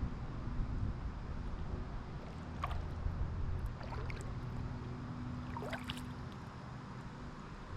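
Kayak paddle strokes in calm pond water: three splashes with dripping, a second or two apart, over a steady low rumble of wind on the microphone.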